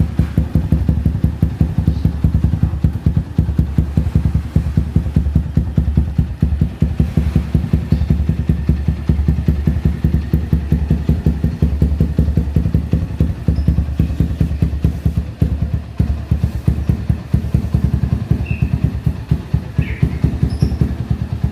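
Motorcycle engine idling steadily through a hollowed-out aftermarket muffler, giving a low, even stream of exhaust pulses.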